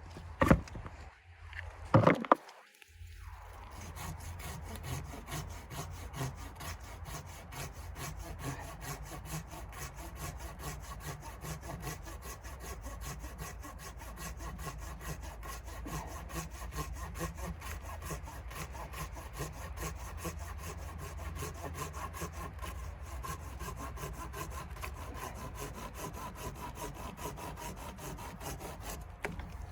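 Hand saw cutting through wood in a steady run of quick strokes, after two sharp knocks about half a second and two seconds in.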